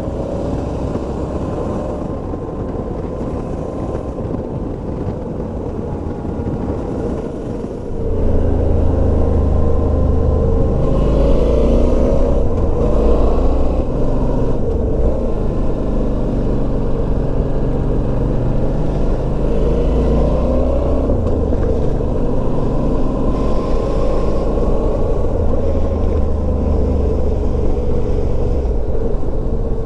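Motorcycle engine running while riding, with wind and road noise. The engine note rises and falls gently. About eight seconds in it gets louder, with a heavier low rumble.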